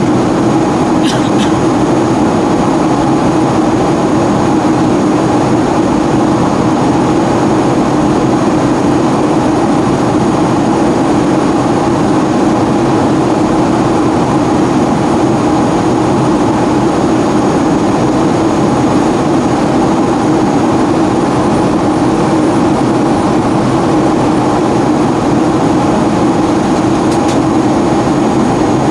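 Steady cabin noise of a Boeing 757-200 in flight: a loud, even roar of engines and airflow, with two faint steady high whines above it. A couple of faint ticks, about a second in and near the end.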